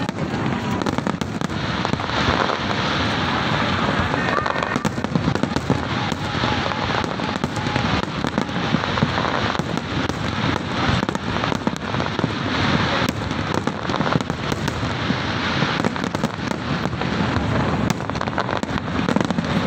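Fireworks display: a dense, unbroken barrage of bangs from many aerial shells bursting in quick succession.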